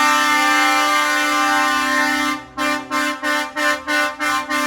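Truck air horn sounding a long steady blast, then breaking into a quick run of short toots, about three a second, before holding long again at the end.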